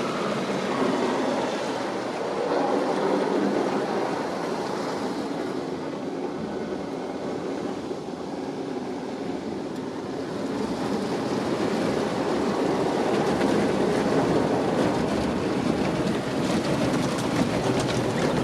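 Ryko Softgloss MAXX rollover car wash running over a car: a steady rush of water spray and machinery that eases off in the middle and swells again toward the end.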